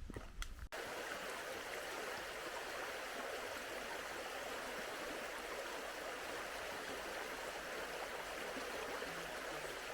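Stream water running steadily over rocks, a constant rushing that begins abruptly under a second in, after a few brief footstep clicks.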